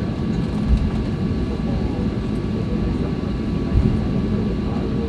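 Inside the cabin of a Boeing 737-800 taxiing after landing: a steady low rumble with a thin steady whine, and two brief thumps, about a second in and near four seconds.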